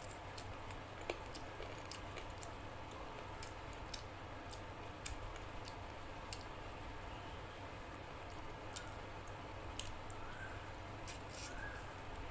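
Close-up eating sounds: a person chewing chicken curry and luchi, with scattered sharp wet mouth clicks, the loudest about eleven seconds in, over a steady low hum.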